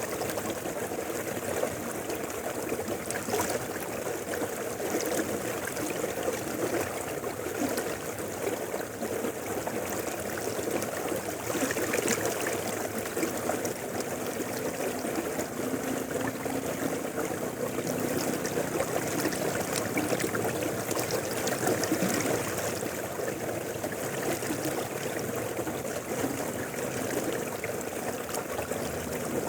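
River water flowing in a steady, continuous rush, without break or change.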